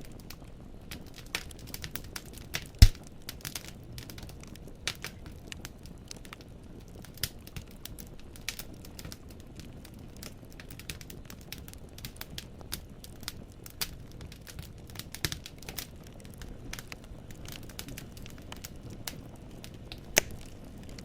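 Firewood crackling and popping in a fireplace: irregular small snaps over a low, steady rumble of the fire, with one sharp, loud pop about three seconds in and another strong one near the end.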